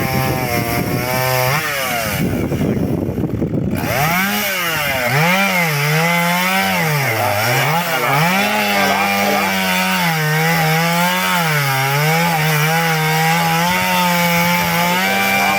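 Chainsaw cutting through a log to cut it in two. About four seconds in the engine revs up and bites into the wood, its pitch dipping and recovering again and again as the chain loads in the cut.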